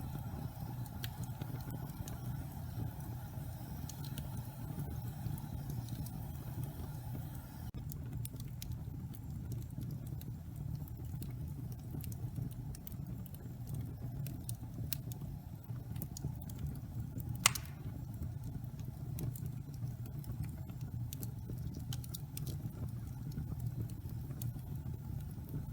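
Wood logs burning in a fireplace: a steady low rumble with scattered sharp crackles, and one loud pop about two-thirds of the way through.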